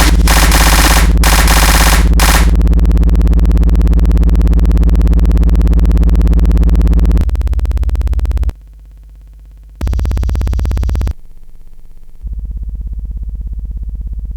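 Electronic noise music. Harsh noise cuts on and off for the first two seconds, then gives way to a loud buzzing synthesizer drone. From about seven seconds in, the drone drops away and comes back in abrupt steps.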